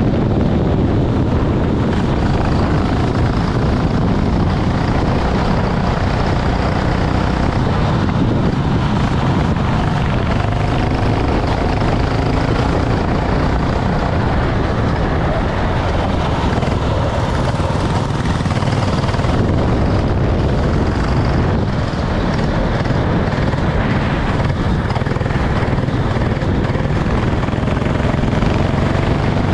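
Racing kart engine running continuously and loudly, the sound holding steady in level throughout.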